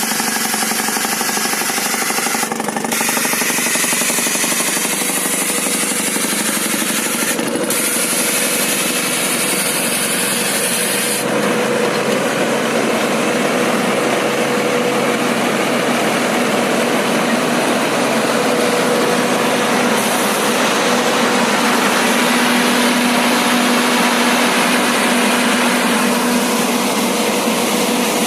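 Highway guardrail pile driver at work: its diesel engine and hammering gear run in a steady, loud mechanical clatter, and about eleven seconds in a steady hum comes up under it.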